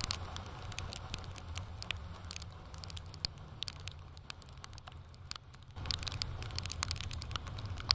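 Raindrops striking a motorcycle rider's camera, a run of irregular sharp ticks over the low steady drone and rush of the motorcycle at highway speed. The rushing noise thins out for a moment and comes back abruptly about six seconds in.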